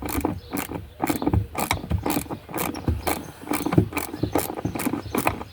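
Socket ratchet clicking in quick runs, several clicks a second, as a car seat's mounting bolt is wound out once it has broken free.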